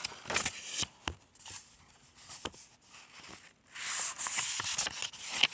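Paper rustling and handling noises from a picture book being handled and its pages moved, with scattered light clicks and a longer rustle near the end.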